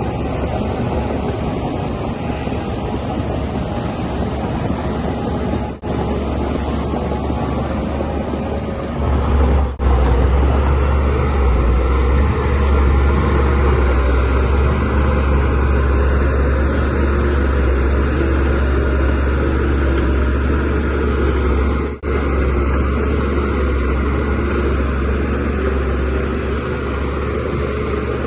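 Shantui DH17C3Pro bulldozer's diesel engine running steadily under working load with a deep rumble, getting louder about nine seconds in. Three very brief dropouts break it.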